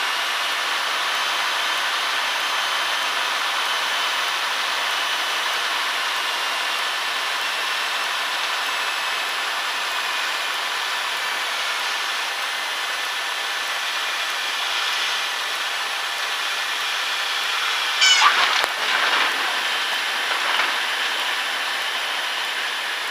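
Cessna 152 cabin noise: its four-cylinder Lycoming engine running at low power with a steady drone and air noise on the landing approach. Near the end a short burst of knocks and a brief tyre squeal, the wheels touching down on the runway.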